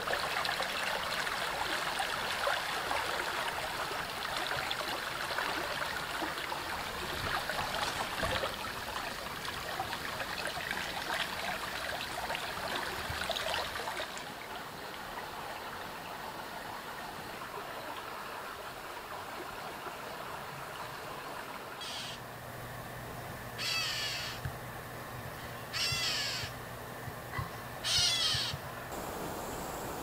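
Four short, harsh bird calls about two seconds apart in the last third, over a steady outdoor hiss that is louder and crackly in the first half.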